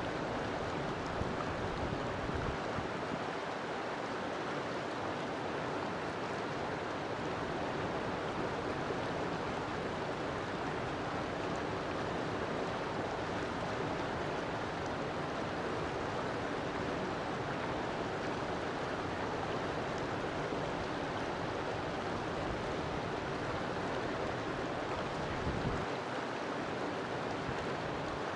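River water flowing, a steady even rush with no break.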